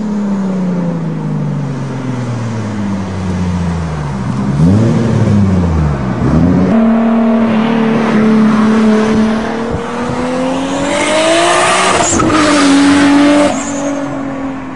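Toyota Supra engine running while the car is driven. The engine note falls as the car slows, with a quick rev blip about four and a half seconds in. It then climbs steadily under acceleration until a sudden break about twelve seconds in, and settles to a steady note.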